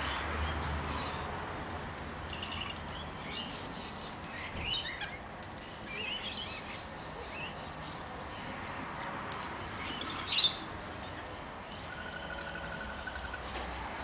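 Birds calling in short, high chirps and squawks scattered through, the loudest a sharp call about ten seconds in. Near the end comes a brief run of evenly repeated lower notes.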